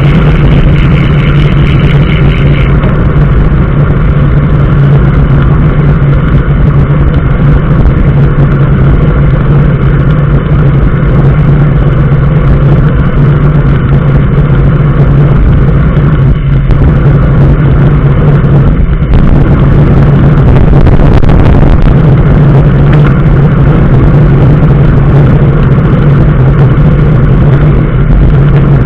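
Steady engine and road noise of a moving motor vehicle, a constant low hum under an even rush.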